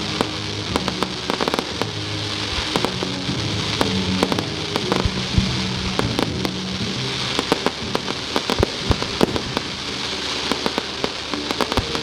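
Fireworks going off: dense, irregular crackling pops and bangs over a continuous fizzing hiss, with music playing underneath.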